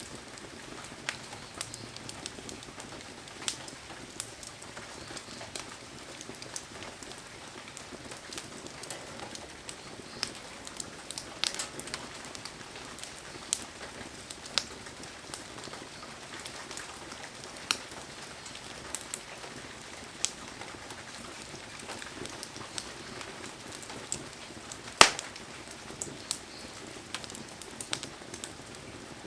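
Heavy rain falling steadily, with a wood fire crackling through it in frequent sharp pops; the loudest pop comes about 25 seconds in.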